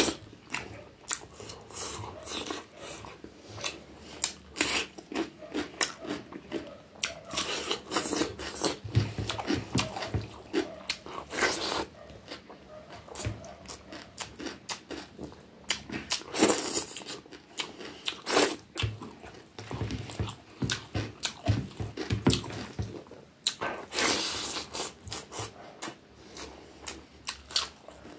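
A man eating rice and curry with his hand: wet chewing and lip-smacking, a quick irregular run of short clicks throughout, with a few longer, louder noisy bursts.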